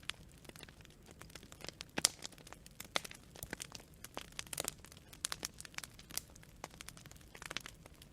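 Campfire of burning wood branches crackling, with irregular sharp pops and snaps over a faint steady hiss of the flames.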